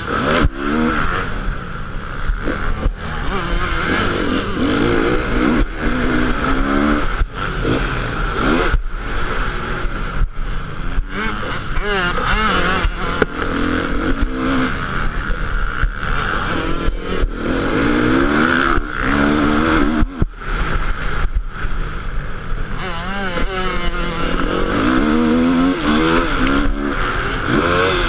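Motocross motorcycle engine running hard, its pitch rising and falling over and over as the throttle is opened and chopped, with frequent short cuts in the sound.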